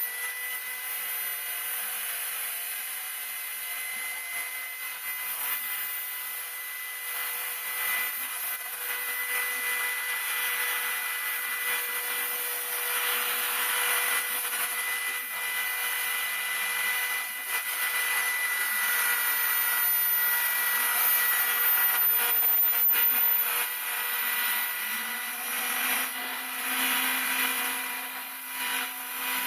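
Homemade CNC router spindle running at a steady high whine while milling wing ribs. The cutting noise rises and falls as the bit works and is loudest through the middle stretch.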